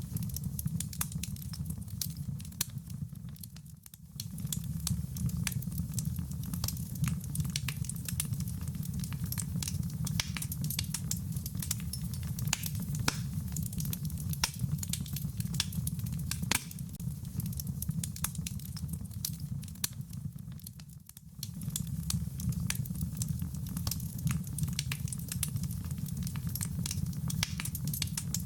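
Wood fire crackling with many sharp pops, mixed with rain pattering over a low steady rumble. The whole sound dips briefly twice, about four seconds in and again around twenty-one seconds.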